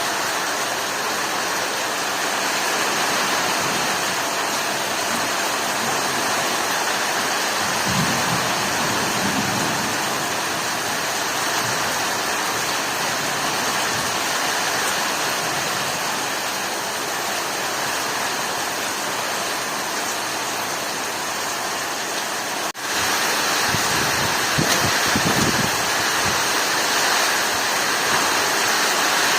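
Heavy rain pouring down in a steady hiss, with a few low rumbles. About two-thirds of the way through it cuts out for an instant and comes back slightly louder.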